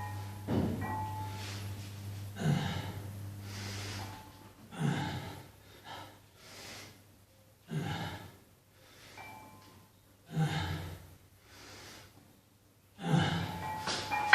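A person breathing hard through a set of lifting repetitions: a forceful exhale about every two and a half seconds, each followed by a softer breath.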